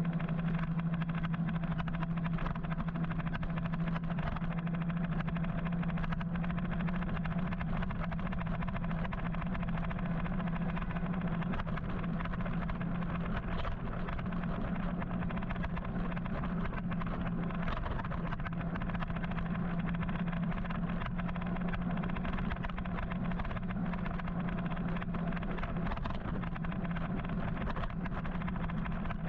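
Riding on an electric motorcycle: a steady low hum over constant wind and road noise, with frequent small clicks and rattles.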